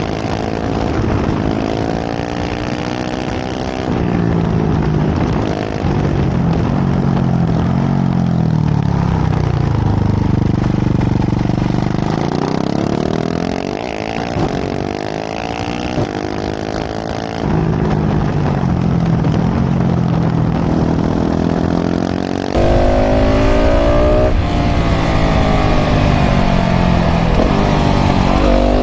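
KTM 690 SMC R's single-cylinder LC4 engine through a full LeoVince exhaust, repeatedly revving up through the gears and dropping back as it shifts and slows, on a run through a string of hairpins. In the last several seconds a heavier wind rush on the microphone joins the engine.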